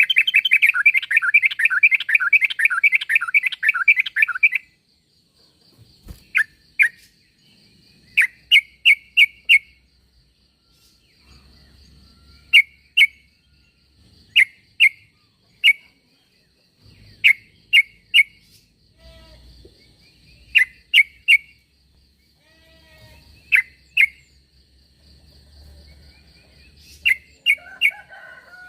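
Yellow-vented bulbul (trucuk) calls. The first four and a half seconds are a fast, continuous run of bubbly notes, followed by short chirps in groups of two to four repeated every second or two. A faint steady high-pitched buzz runs underneath.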